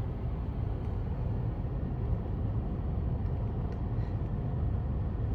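Steady low rumble, like a car engine idling heard from inside the car.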